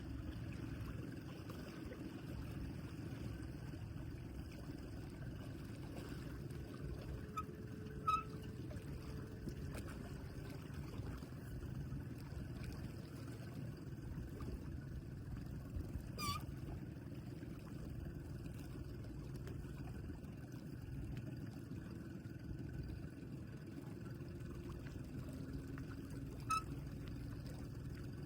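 The 1998 Post 42 yacht's twin 435 hp Volvo Penta engines running steadily, with water splashing and gurgling around the boat. Three brief sharp chirps stand out, about a third, two-thirds and nine-tenths of the way through.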